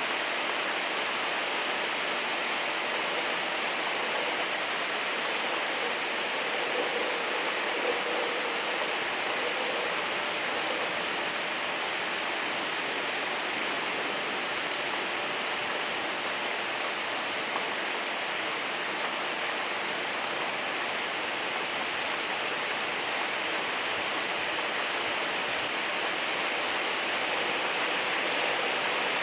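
Steady rain falling, an even, unbroken hiss with no lulls.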